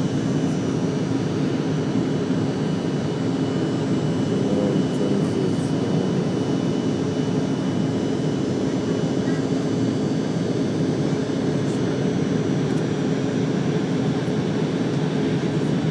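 Passenger jet's engines running steadily in flight, a continuous drone with a constant hum, heard from inside the cabin.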